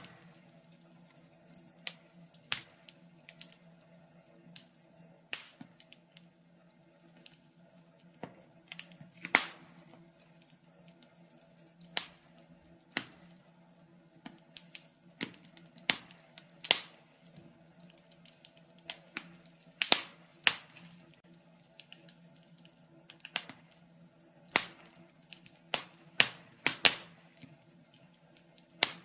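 Wood fire in a fireplace crackling, with sharp irregular pops every second or so, some in quick clusters, over a faint steady hum.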